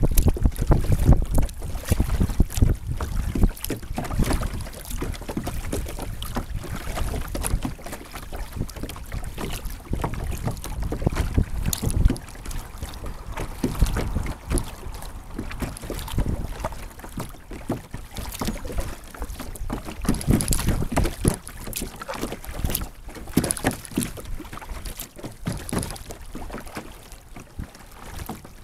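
Wind buffeting the microphone of a kayak-mounted action camera as a low, gusting rumble, with water splashing and lapping against the kayak as it is paddled. The wind rumble is strongest in the first few seconds.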